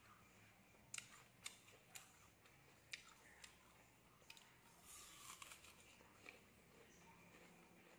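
Faint, sharp clicks and crunches of someone chewing raw apple, coming irregularly about once a second.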